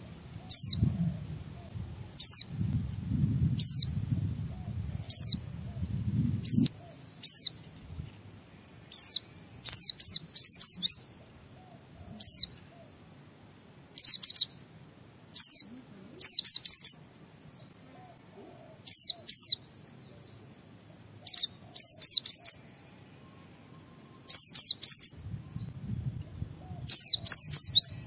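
White-eye (pleci) calling: short, high, down-slurred chirps, some single and some in quick runs of two to four, repeated every second or so, over a low rumble at the start and near the end.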